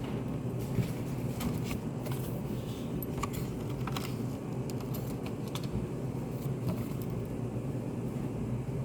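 Study-cafe room ambience: a steady low hum of ventilation, with scattered light clicks and taps from people working at their desks.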